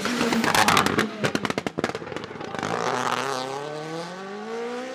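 WRC rally car at speed: a run of sharp pops and bangs from the exhaust on lift-off, then the engine revving hard and rising in pitch as it accelerates, with a gear change near the end.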